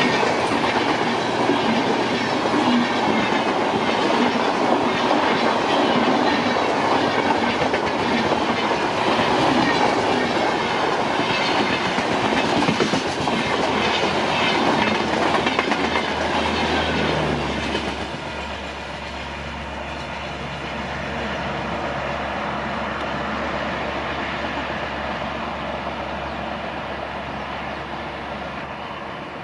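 An express train's coaches passing at speed, with wheels clattering over rail joints in a fast clickety-clack. About two-thirds of the way through the train clears and the noise drops to a fading low rumble as it recedes.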